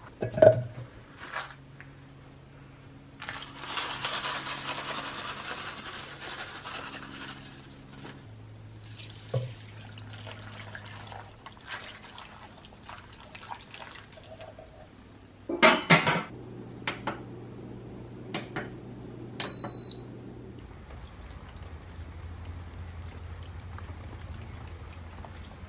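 Household sounds with no speech: water rushing for about five seconds early on, then scattered knocks and clattering of objects, and a single short electronic beep about two-thirds of the way through, over a low steady appliance hum.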